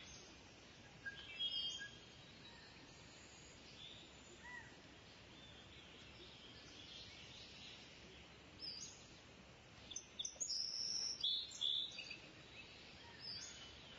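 Faint birdsong: short high chirping phrases from small birds, coming in scattered bursts that are busiest near the end, over a soft steady outdoor hiss.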